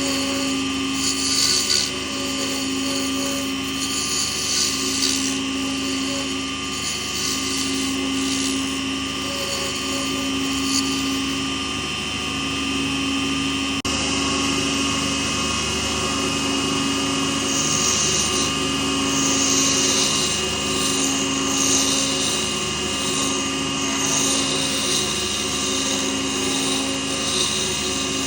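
Small lathe running steadily, its hum pulsing about once a second, with intermittent bursts of hiss from a tool working the spinning pen blank.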